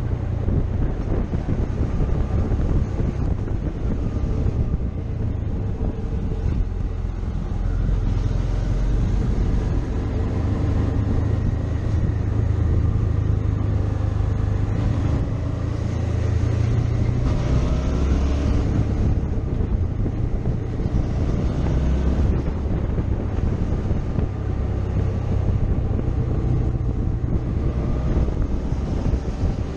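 Motorcycle riding along at speed, its engine running with a pitch that drifts up and down as the revs change, under a heavy, steady rumble of wind on the microphone.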